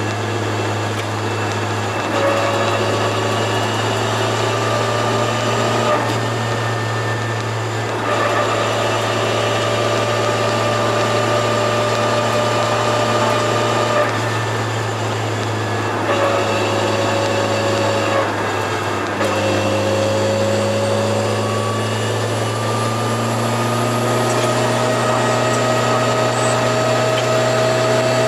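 Turbocharged Toyota AE86 engine and exhaust while driving, the engine note climbing slowly in stretches that break off every few seconds as the revs drop and pick up again. A faint high whine rises and then falls near the end.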